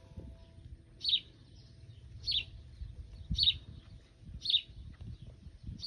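A bird calling repeatedly: five short, high chirps about one a second, over a low background rumble.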